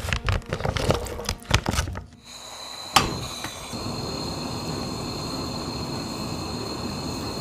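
Clattering kitchen handling, a run of knocks and clicks, for about two seconds. Then a steady hiss with a faint high-pitched whine on top, broken once by a sharp click, which cuts off suddenly at the end.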